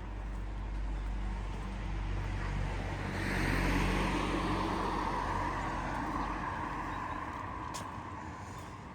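A car passing by on the street. Its engine hum and tyre noise swell to a peak about three to four seconds in, then fade away as it drives off.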